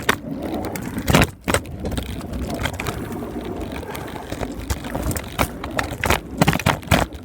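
Y Fliker caster scooter's wheels rolling over wet pavement, a steady rushing noise broken by many sharp clicks and knocks, the loudest about a second in.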